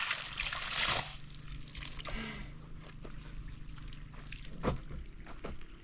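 Water pouring and splashing, cutting off about a second in, then scattered light drips and knocks, one sharper knock near the end.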